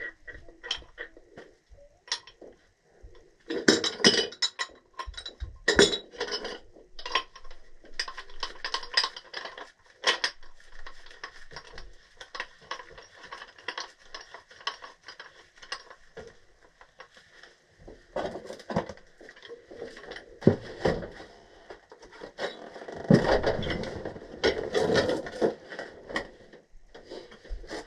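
Metal tools and parts clinking and clattering as a furnace's gas valve and its piping are worked on: scattered sharp clinks and knocks, busiest about four to six seconds in and loudest near the end.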